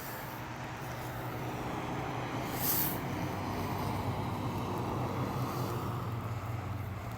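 Yamaha motorcycle engine running steadily under way, with wind noise; the sound grows slowly louder, and there is a short hiss about two and a half seconds in.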